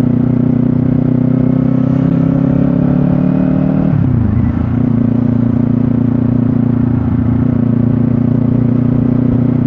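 Motorcycle engine running under way, its pitch climbing slowly for about four seconds, then dropping sharply and holding steady.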